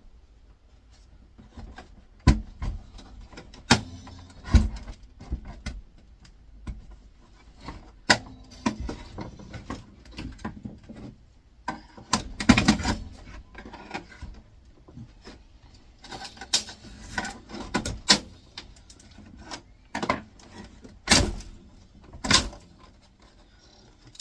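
Irregular knocks, clicks and rattles of hand tools and the air fryer's plastic casing being handled and pried apart, with a few sharper knocks standing out.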